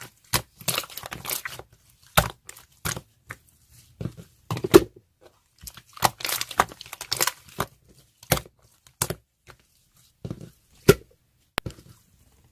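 Irregular crinkling and tearing noises of something being handled, in short sharp bursts with a few longer rustling stretches.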